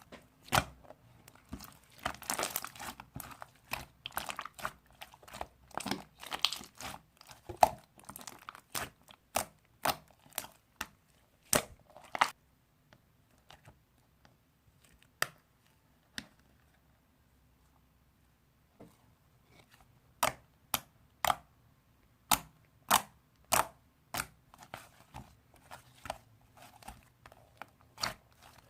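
Slime being squished and stretched by hand, giving sharp, irregular clicks and pops. A quiet spell of a few seconds comes near the middle.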